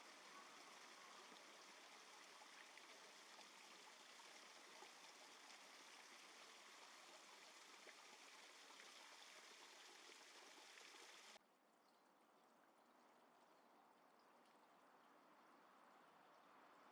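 Faint rush of flowing stream water. About eleven seconds in it cuts abruptly to a quieter, duller hiss.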